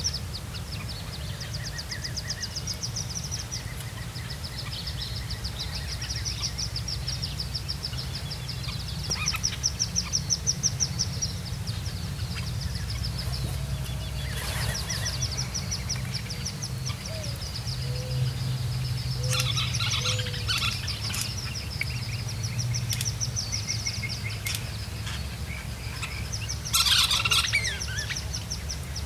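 Birds calling: a high, rapid trill repeats every few seconds, with short chirps between, over a low steady rumble. Near the end comes a louder burst of high calls, which fits wood duck ducklings peeping in their tree-cavity nest.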